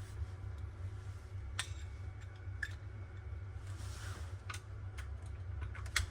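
Scattered light clicks and knocks, the loudest near the end, over a steady low hum.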